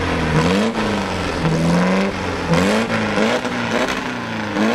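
Custom dune buggy's engine revved up and down several times, its pitch rising and falling with each blip of the throttle.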